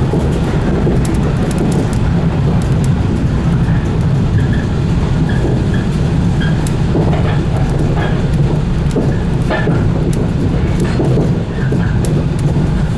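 115 series electric train running steadily along the line, with a continuous low rumble of wheels on rail and scattered sharp clicks.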